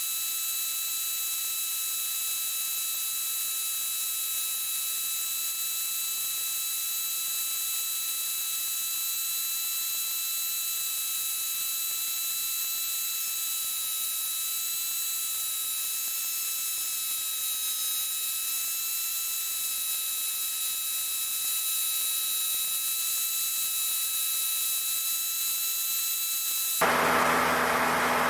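Steady hiss with faint high whining tones, as heard through the cockpit audio feed of a Cessna 152 in flight. Near the end it switches abruptly to a louder, lower drone of the aircraft's engine.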